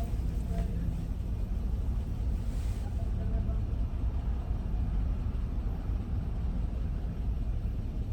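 Steady low rumble of a car's engine and cabin, heard from inside the car.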